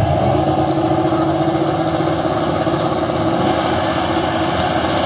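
Drag-racing cars' big engines idling steadily.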